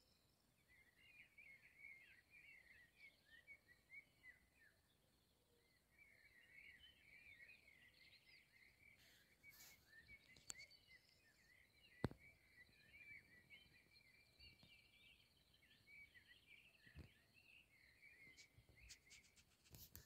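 Faint birdsong: a steady run of short, quick chirps and twitters, with one sharp click about twelve seconds in.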